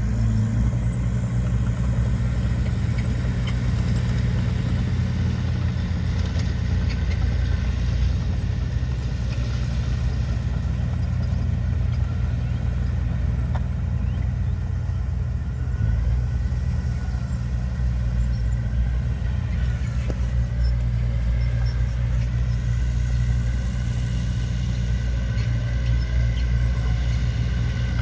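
Heavy earthmoving machinery's diesel engine running steadily at a constant speed, with a deep, even drone.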